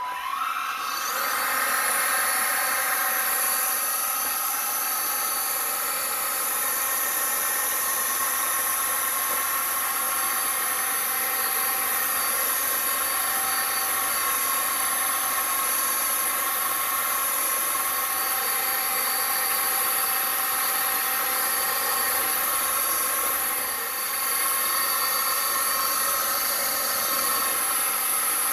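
BuTure VC70 cordless stick vacuum switched on, its motor spinning up over about a second to a steady high-pitched whine and running steadily, with a brief drop in level late on.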